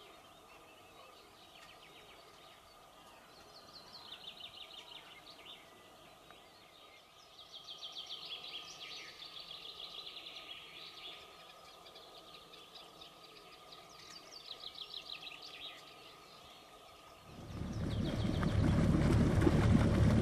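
A small songbird singing short, rapid trilled phrases, three or four songs with pauses between, over a faint steady hum. Near the end a much louder low rushing noise cuts in: a boat under way.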